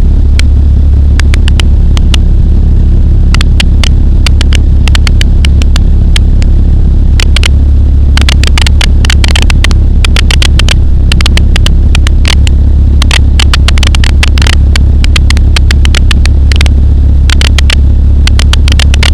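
Pulsar XP microlight's engine and propeller droning steadily and loudly in cruise flight, with many short sharp crackling clicks scattered through it.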